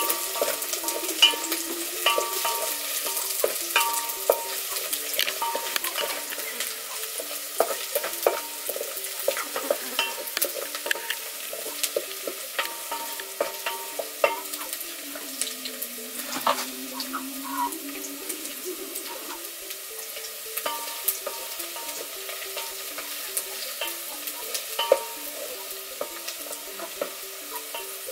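Food frying in oil in an aluminium pot, with a steady sizzle, while a wooden spoon stirs it, scraping and knocking against the metal in many small clicks.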